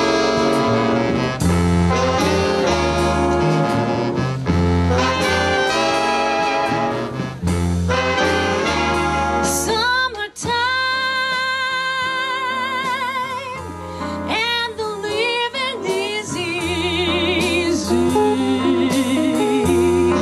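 Swing band music with brass, a steady walking bass and a singing voice; held notes with vibrato come in about halfway through.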